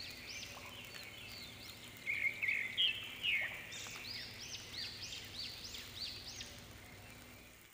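Birds calling: a run of short, high, arched notes repeated a few times a second, loudest in a brighter cluster of chirps about two to three and a half seconds in, over a faint steady hum.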